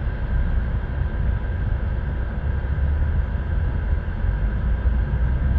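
Steady low rumble of a vehicle's engine and road noise, heard from inside the vehicle.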